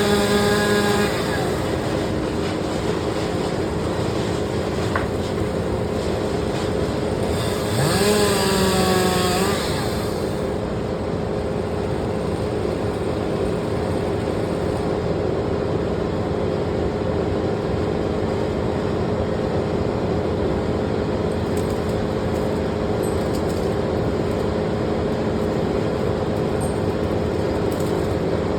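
Chainsaw revved up twice, briefly each time: right at the start and again about eight seconds in. Between and after the revs, a steady engine drone runs on.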